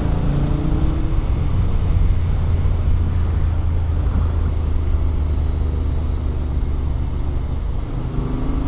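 Honda X-ADV 750's parallel-twin engine running steadily under way, through the stock exhaust with an Akrapovic header, a low steady drone. A higher engine note is heard in the first second or so and again near the end.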